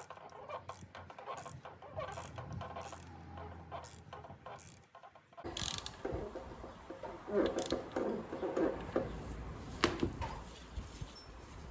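Ratchet wrench clicking in short runs on the crankshaft bolt as the 1.6 HDi diesel engine is turned over by hand to check the valve timing, with metallic clinks of tools and parts.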